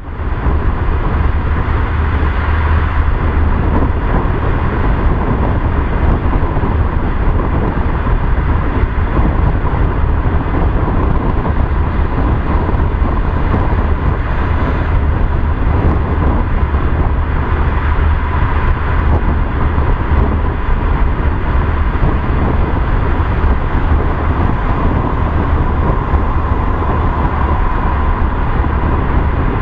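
Steady road noise of a car driving, with a deep low rumble and a faint steady tone, the level unchanging throughout.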